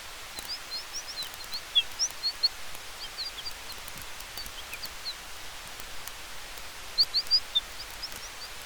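Campfire crackling faintly under a steady soft hiss of wind and fire, with many short high chirps scattered over it, loudest in clusters about two seconds in and again near seven seconds.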